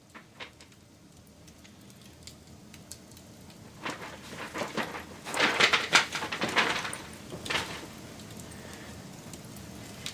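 Wood fire crackling: scattered sharp snaps over a low hiss, building to a flurry of loud pops and crackles from about four to seven and a half seconds in.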